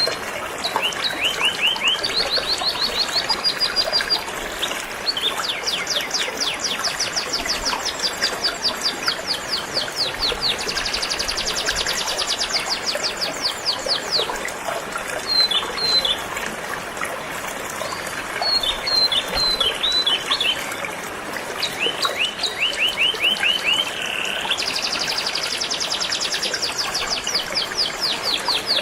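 Canary singing a long song of rapid trills, each a quick run of repeated notes, switching to a new trill every second or few. Flowing river water runs underneath as a steady rush.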